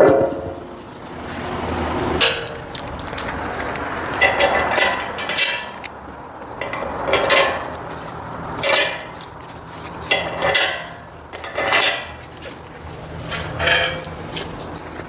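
Steel parts of a hydraulic log splitter clanking and clinking as its hydraulic cylinder and bolts are fitted to the welded frame: about ten separate, irregular metal knocks, some with a short ring.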